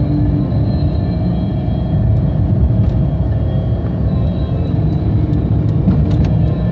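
Maruti Suzuki Baleno driving at highway speed: a steady, loud, low rumble of road and engine noise, with a few faint clicks.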